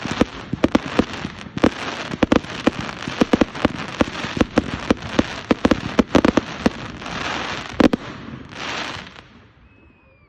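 Fireworks going off: a rapid run of sharp cracks and bangs, several a second, over a crackling hiss. Two longer hissing bursts come near the end, then the sound dies away.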